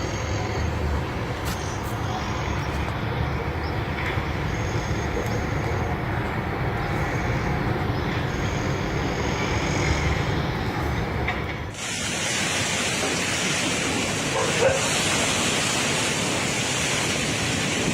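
Storm wind rumbling on the microphone. About twelve seconds in it gives way suddenly to a harsher, steady hiss of strong wind and surf.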